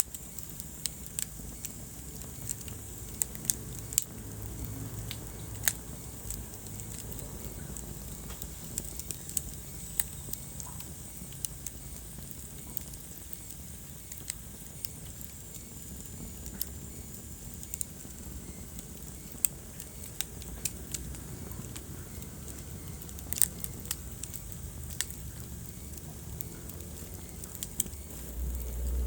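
Wood fire crackling in a fireplace: irregular sharp pops and snaps over a soft steady hiss, with a low rumble rising near the end.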